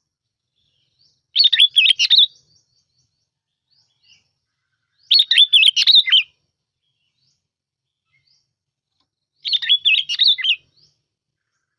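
Sooty-headed bulbul (bông lau) song used as a lure call: three short, bubbly, warbled phrases of about a second each, roughly four seconds apart.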